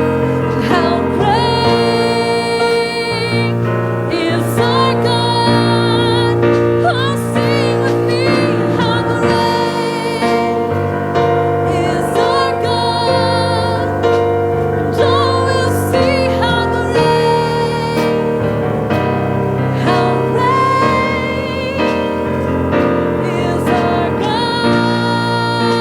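Gospel worship music: sustained piano and keyboard chords with singing, played steadily.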